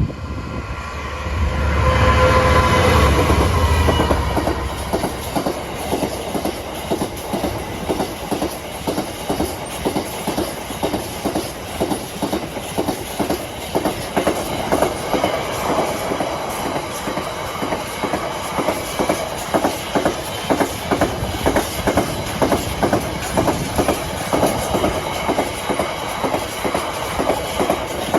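Diesel-hauled freight train passing close by. The locomotive is loudest a second or two in, with a steady engine note, and is followed by a long rake of freight wagons clattering over the rails in a steady, repeated clickety-clack of wheels.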